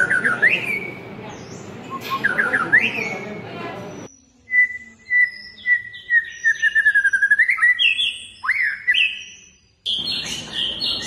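A small songbird chirping and singing: repeated thin whistled notes, quick rising sweeps and a short falling run of notes. A hum of background noise under it cuts out abruptly about four seconds in and comes back just before the end.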